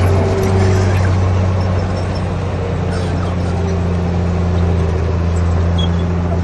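Komatsu D58P bulldozer's diesel engine running steadily at an even pitch, with a few faint knocks in the middle.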